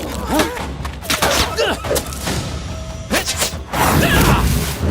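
Cartoon action-scene soundtrack: music under thuds and whooshes, with short vocal cries, and a dense rushing blast setting in about four seconds in.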